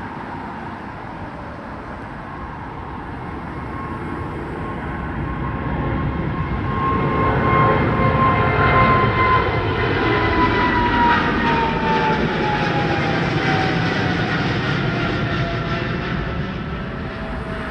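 Jet airliner departing and passing by. The engine noise swells to a peak about halfway through, and a whine falls in pitch as the aircraft goes past, then eases off.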